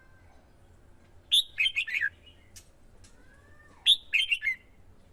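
Red-whiskered bulbul singing: two short, loud phrases of quick notes stepping down in pitch, about a second and a half in and again near the four-second mark, with faint softer whistles between.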